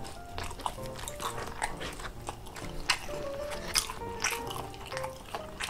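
Close-miked chewing of sauced fried chicken and rice cake, with many short wet clicks from the mouth, over soft background music.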